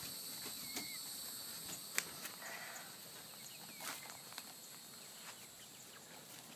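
Chickens giving a few faint short calls, one rising chirp about a second in and another about two seconds in, with a brief harsher squawk just after, over soft scuffs and clicks.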